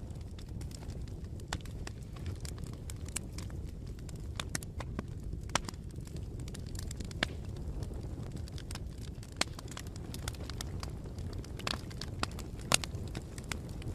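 Campfire burning: a steady low rumble of the flames with irregular sharp crackles and pops of the wood, one louder pop near the end.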